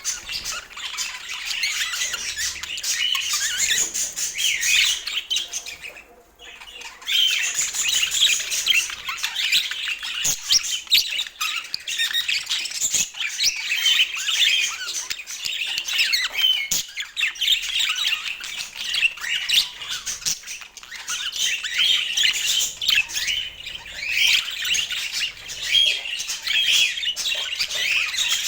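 Pet budgerigars chattering, chirping and squawking continuously, with a short pause about six seconds in.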